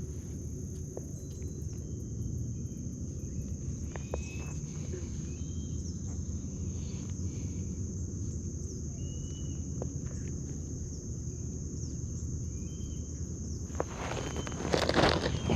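A steady high-pitched insect chorus of summer crickets and cicadas, with a few short chirps over it and low steady noise underneath. A louder rush of noise comes near the end.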